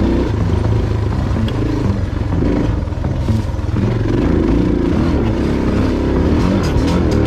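Motorcycle engine running under changing throttle while riding, its pitch rising and falling as the rider rolls on and off.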